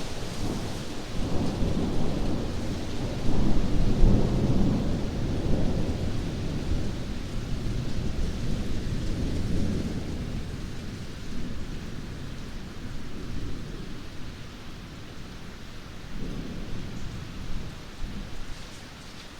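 Thunderstorm: steady rain with rolling thunder, loudest a few seconds in and fading away, and a smaller rumble near the end.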